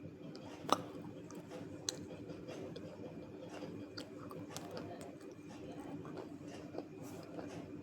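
Someone chewing and crunching dry pieces of multani mitti (fuller's earth clay) in the mouth, with irregular crisp cracks, the sharpest about three-quarters of a second in and another about two seconds in. A steady low hum runs underneath.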